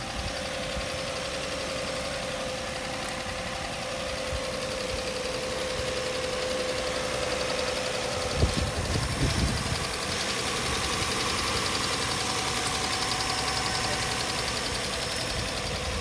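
Hyundai Santa Fe 2.7-litre V6 engine idling steadily, with a light, fast ticking over its hum. A few low thumps come about halfway through.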